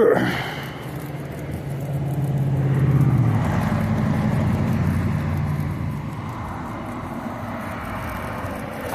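A motor vehicle going past, its low engine hum swelling to a peak about three seconds in and then slowly fading.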